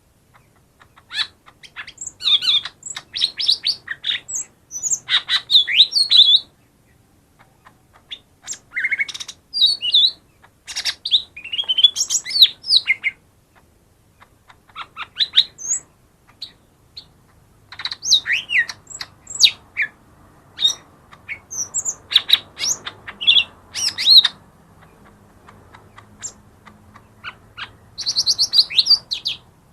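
Lesser green leafbird (cucak ijo mini) singing: rapid, varied chirps, whistles and sliding notes delivered in busy phrases of a few seconds, with short pauses between them.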